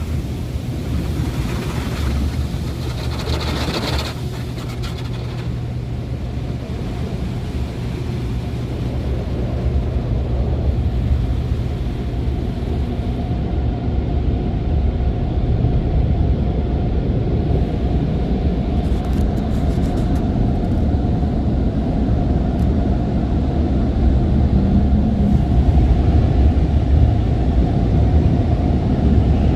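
Automatic car wash equipment running, heard from inside the car: a steady low rumble with a burst of spray hiss a few seconds in.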